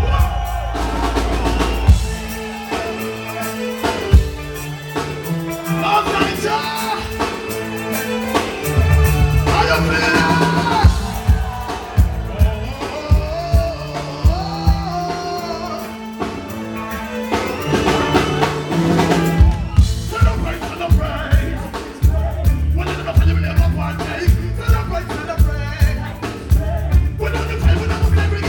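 Live reggae band playing, with a steady drum kit beat of snare rimshots and kick drum under a repeating bass line and a melody on top.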